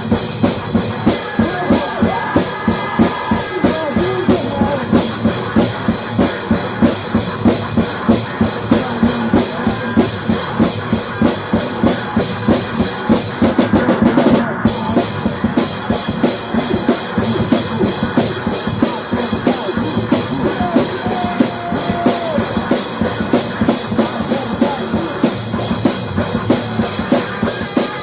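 Instrumental rock music with a drum kit, bass drum and snare, keeping a steady beat.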